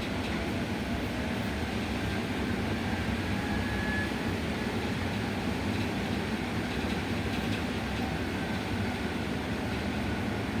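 Inside a moving electric bus: steady rumble of tyres and road with the drive running, and a faint high whine showing briefly about two seconds in.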